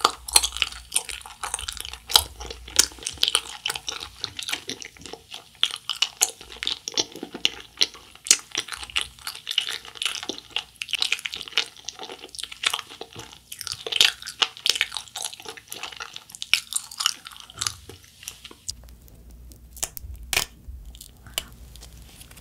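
Wet, sticky chewing of a Trolli Planet Gummi globe-shaped gummy candy: a rapid run of squishy clicks and smacks. It thins to a few sharp clicks in the last few seconds.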